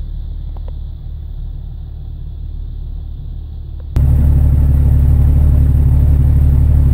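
Jeep Cherokee XJ engine running steadily at idle, first muffled inside the cabin, then much louder with exhaust rumble from about four seconds in, heard at the tailpipe.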